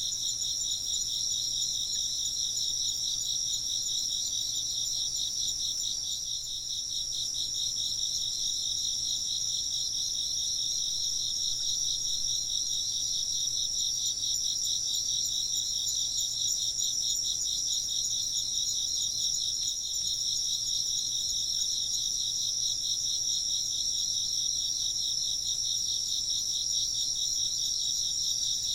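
A chorus of insects chirping steadily: several high-pitched, fast-pulsing trills overlap without a break.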